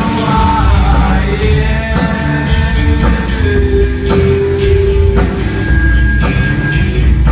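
Rock song: a sung vocal line holding long notes over a full band with a steady beat.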